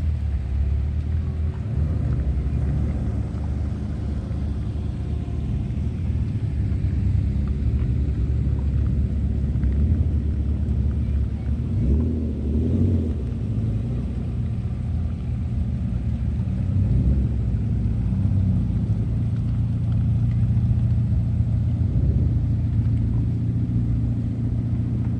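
Car engine running at a steady speed with road rumble, a continuous low drone.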